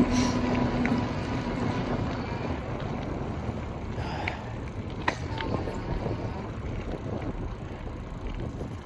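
E-bike riding along a trail: tyre rumble and wind buffeting the action-camera microphone. A steady hum fades out in the first couple of seconds, and there are a couple of sharp clicks from the bike about four and five seconds in.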